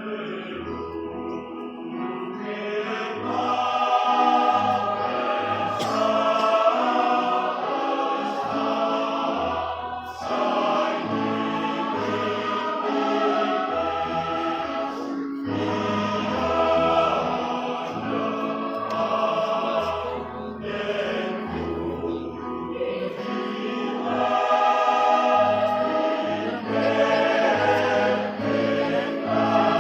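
A choir singing a piece in several parts, entering abruptly at the start, with sustained low bass notes beneath the harmony.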